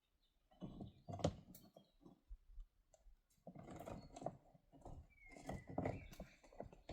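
Irregular knocks and scraping of things being handled, with a sharp knock about a second in. A brief high thin tone comes near the end.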